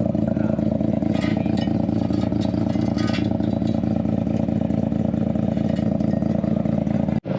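A car engine running at a steady idle with an even, unchanging pitch, broken by a split-second dropout near the end.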